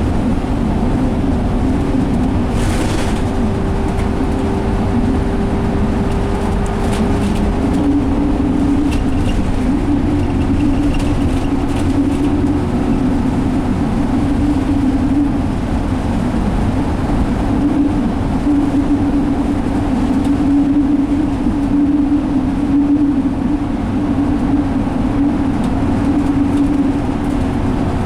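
Inside a 2017 Alexander Dennis Enviro500 double-decker bus cruising on a freeway: the Cummins ISL diesel and driveline drone steadily under road and tyre noise. A thin steady tone creeps up in pitch and then drops about ten seconds in.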